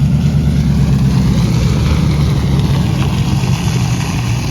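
A vehicle engine running steadily, with a low hum.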